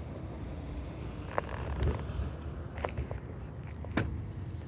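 Garbage truck engine running low and steady, with four sharp clicks or knocks spread through it.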